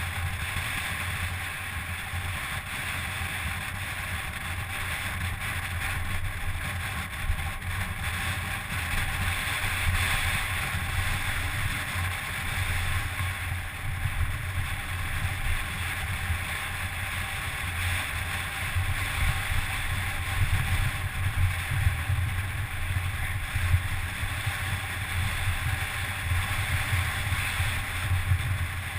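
Steady rush of wind over an action camera's microphone with the rumble of a mountain bike rolling downhill.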